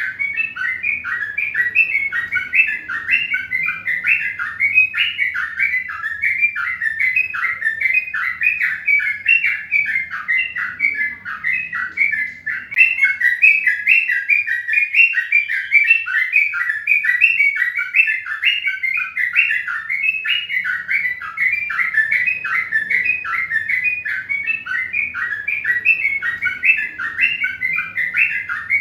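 Birds chirping, a continuous stream of short, quick chirps several times a second over a faint low hum.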